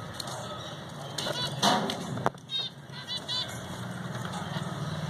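Pet lovebirds chirping: a series of short, sharp, high-pitched chirps, several in a row, over a low steady hum.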